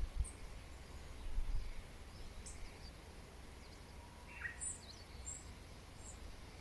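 Wild birds chirping: scattered short, high-pitched chirps, bunched together about four to six seconds in, with one lower falling call just before them, over a faint low rumble.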